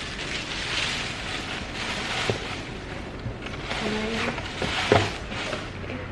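Packaging rustling and being handled while a beauty fridge is unboxed, with a sharp click a couple of seconds in and a louder knock about five seconds in.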